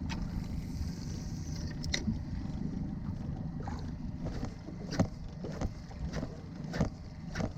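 Small waves slapping against the hull of a small boat adrift, a series of sharp irregular slaps that come about every half second in the second half, over a steady low rumble of wind on the microphone.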